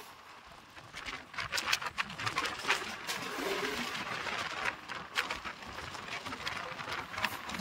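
Express passenger train running at speed: a steady rush of wheel and air noise with irregular sharp clacks of the wheels over rail joints.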